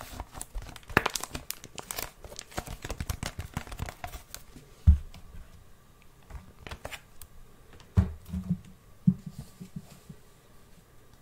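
Close-miked crinkling and rustling of something being handled, dense fast crackles at first, then thinning to a few soft thumps about five, eight and nine seconds in.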